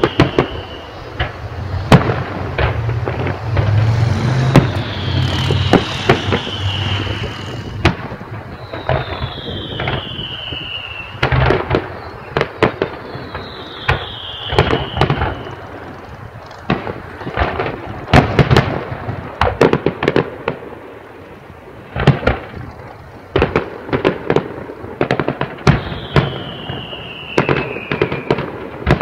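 Fireworks display: many bangs and crackling bursts, with five or six falling whistles from whistling shells spread through, and a low rumble in the first few seconds.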